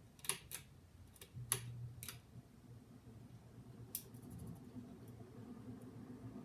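Hunter Balboa ceiling fan motor spinning up on high speed, a low steady hum that grows slowly louder. Several light clicks in the first two seconds and one more about four seconds in.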